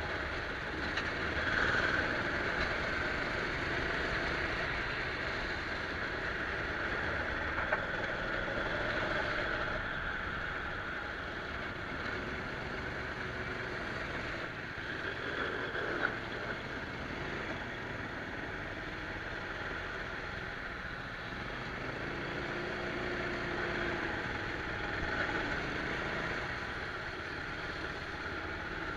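Rental go-kart engine running continuously under racing load, heard from onboard, its pitch shifting as the kart goes through corners and straights on a wet track. Two short clicks stand out briefly, about 8 and 16 seconds in.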